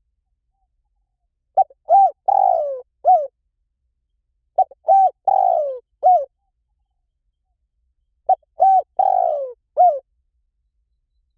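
Spotted dove cooing: three identical phrases about three seconds apart, each of four low notes, two short coos, a longer falling coo and a short final coo.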